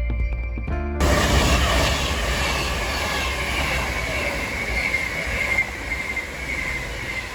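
Train passing on the rails: a loud rush of wheel and rail noise with a high, steady squeal from the wheels, fading toward the end. Music plays for about the first second before the train sound cuts in.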